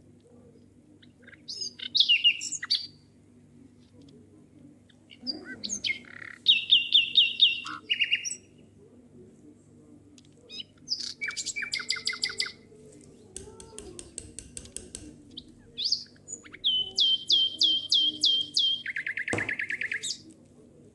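A small songbird chirping and singing in several bouts, including runs of short, even notes at about five a second, with quiet gaps between them.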